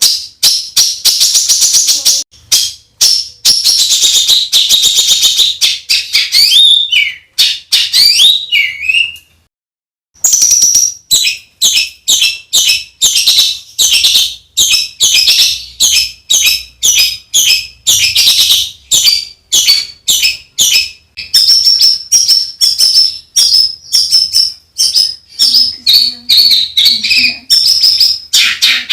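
Songbird song made of fast, harsh, closely packed repeated notes, the rough shot-like 'tembakan kasar' bursts used as masteran for competition birds. It pauses for about a second a third of the way in, then runs on just as dense, with a stretch of quicker whistled trills near the end.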